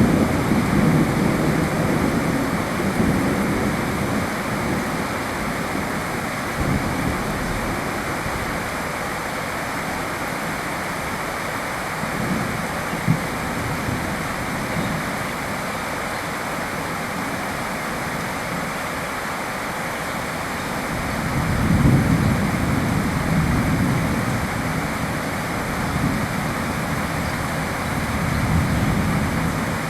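Steady rain falling, with low rolling rumbles of distant thunder. The loudest rumble swells up about two-thirds of the way through.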